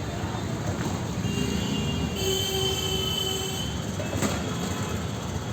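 Busy street traffic noise, with a high metallic squeal held for about two seconds around the middle and a short knock about a second later.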